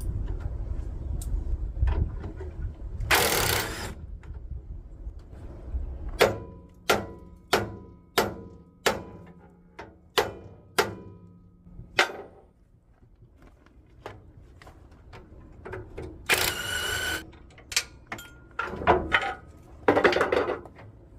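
Hammer blows on a steel steering arm to knock a tie rod end loose: a run of about ten sharp metallic strikes, roughly two a second, each leaving a short ringing note. A few harsh scraping or clattering noises of metal parts come before and after.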